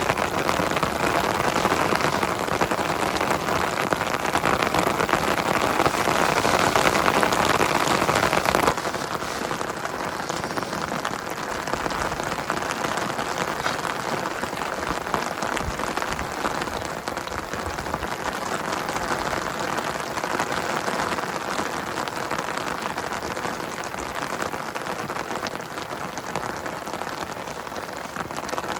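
Heavy rain falling, a steady dense hiss of drops. About nine seconds in it suddenly turns quieter and less hissy, and stays that way.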